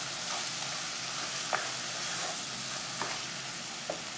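Ground green masala paste sizzling in oil in a nonstick wok as it is fried and stirred with a plastic spatula, with a few short scrapes of the spatula against the pan.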